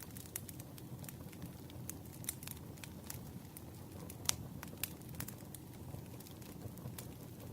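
Campfire crackling: irregular sharp pops and snaps over a low, steady rumble of burning wood, with one louder pop a little past the middle.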